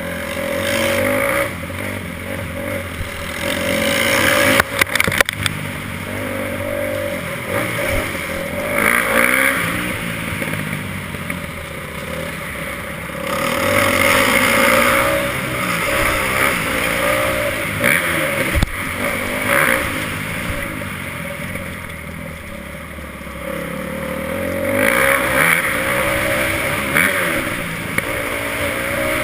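Motocross bike engine revving up and falling back again and again, as when riding a lap of a dirt track, with a short burst of clattering about four to five seconds in.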